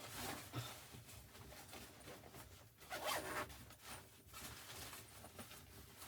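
A zipper being pulled in two short runs, the second and loudest about three seconds in.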